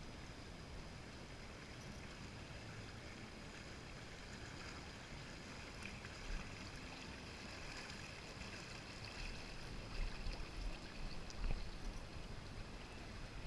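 Lazy-river water flowing and lapping around a floating inner tube, a steady soft wash, with a few louder low knocks about ten seconds in.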